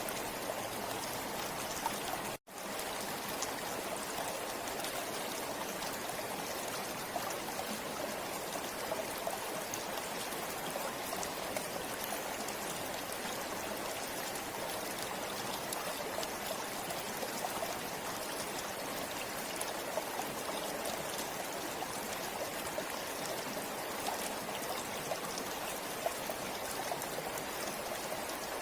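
A river flowing steadily, a continuous rush of water with small scattered splashes. The sound cuts out for an instant about two seconds in.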